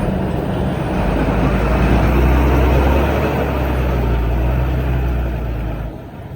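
Heavy diesel engine of earthmoving machinery running with a deep rumble, growing louder about a second in and dropping away sharply near the end.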